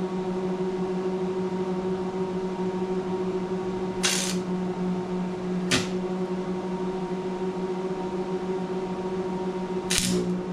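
Electric welder running during tack welding with a steady electrical hum. Short, sharp crackling bursts come about four seconds in, again near six seconds, and around ten seconds.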